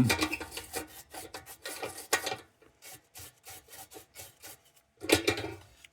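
Irregular rubbing and scraping strokes, several a second, of hands and tools working on a tin lantern on a workbench.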